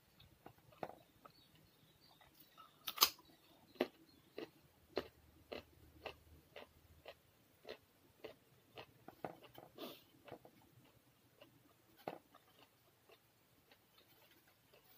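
Close-up mouth sounds of someone eating with their fingers: chewing with a run of short smacks and clicks, about two a second, the loudest about three seconds in.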